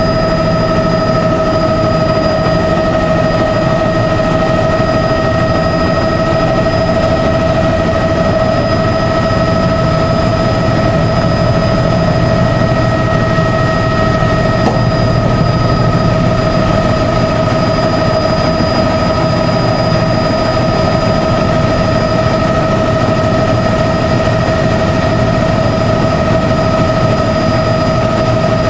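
Helicopter heard from on board: loud, steady turbine and gearbox whine, with several high tones held over a dense low rotor rumble that never changes.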